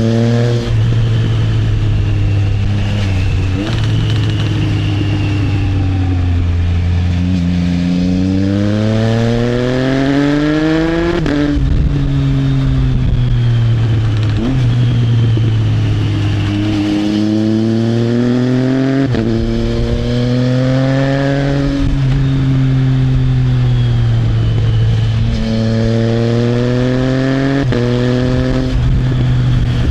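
Triumph Trident 660's inline three-cylinder engine through an Arrow exhaust, pulling through the gears: the engine note climbs steadily, then drops sharply at each upshift, several times over, with steadier cruising stretches between.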